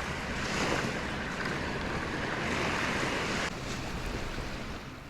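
Small surf washing onto the beach, with wind on the microphone; the sound drops off abruptly about three and a half seconds in.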